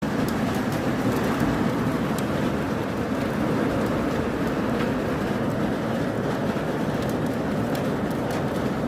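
Heavy rain and hail coming down in a steady roar, with scattered sharp ticks of hailstones striking.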